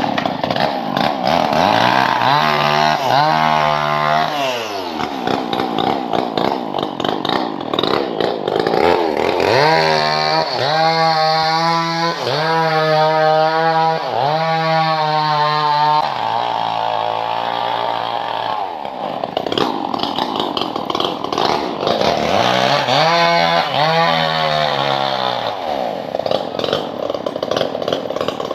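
Engine-driven wood saw running loud, its engine speeding up and dropping back in three spells, with steadier lower running in between. The sound cuts in abruptly at the start.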